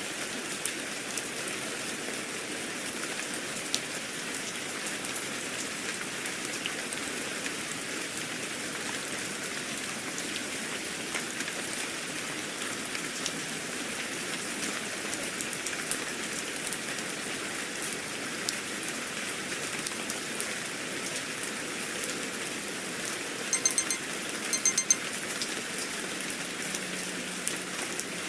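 Steady rain falling, an even hiss with scattered drop ticks. About three-quarters of the way through, two short bursts of high electronic beeps sound over it.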